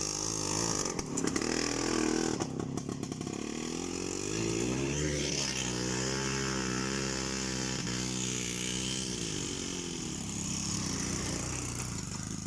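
Small off-road motorcycle engine revving hard, its pitch rising and falling as it labours through deep snow, then fading away near the end.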